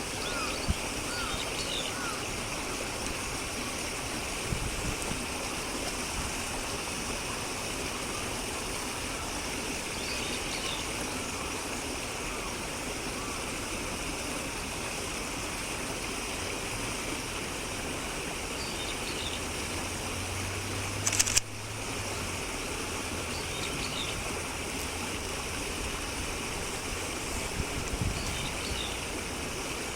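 Faint short calls of wild birds, repeated a handful of times, over a steady rushing noise like running water. A brief sharp knock about two-thirds of the way in.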